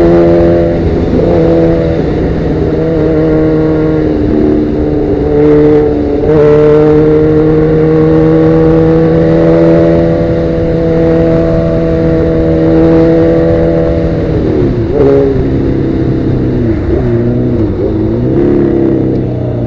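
Sportbike engine running through Danmoto XG-1 slip-on exhausts while riding, over low wind rumble. The engine holds a steady pitch for long stretches with a short dip about four seconds in. Around fourteen seconds the pitch falls away as the bike slows, then wavers up and down.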